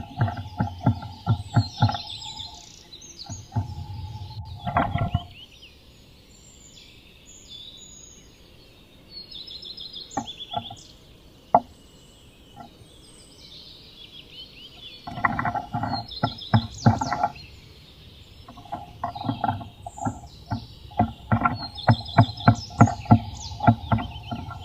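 Rapid bursts of sharp taps and knocks on the wood of a nest box as a Eurasian nuthatch works inside it, with a pause of about ten seconds early on and a long run of knocking near the end. Other birds sing in the background throughout.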